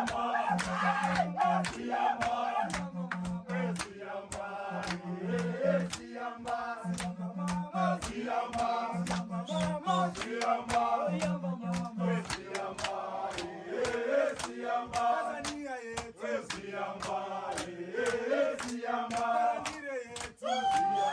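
A group of voices singing and chanting a Swahili song in call-and-response style, with low held notes from the lower voices and a steady beat of sharp strokes about three a second.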